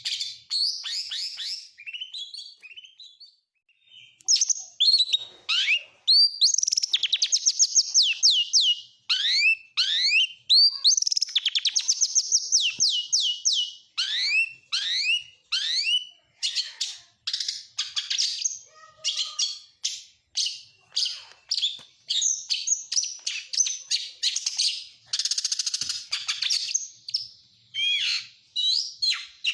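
Oriental magpie-robin (kacer) singing a varied, mimicry-filled song of rapid trills, quick sweeping whistles and chattering phrases, with a brief pause about three seconds in.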